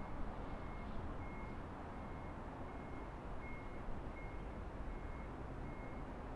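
Electronic warning beeper sounding one steady high pitch, about one short beep every three-quarters of a second, over a continuous low traffic rumble.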